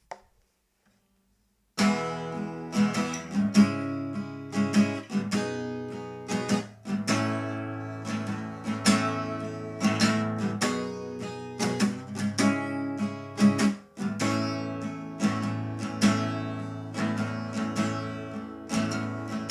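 Acoustic guitar starting about two seconds in, playing chords in a steady, even rhythm as the instrumental intro to a song.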